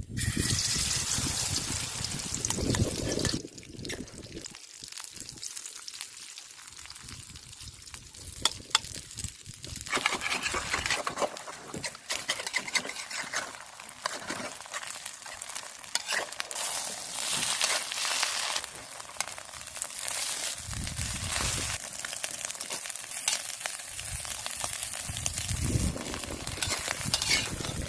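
Hoi tod, a Thai shellfish-and-batter pancake, frying and sizzling in hot oil in a pan, the sizzle swelling and easing, with sharp clicks and scrapes of a utensil against the pan.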